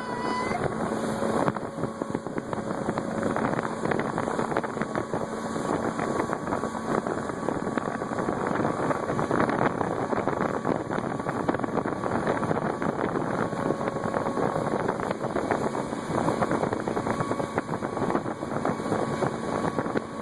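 Motorboat engine running steadily while towing a parasail, with wind rushing over the microphone.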